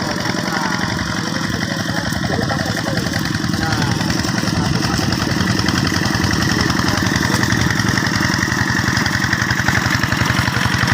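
Two-wheel hand tractor's single-cylinder diesel engine running steadily with an even, rapid chugging beat.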